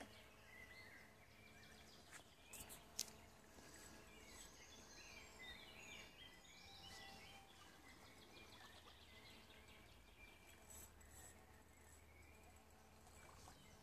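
Near silence: quiet streamside ambience with faint birdsong, short chirping phrases mostly in the first half. A few sharp clicks about two and a half to three seconds in.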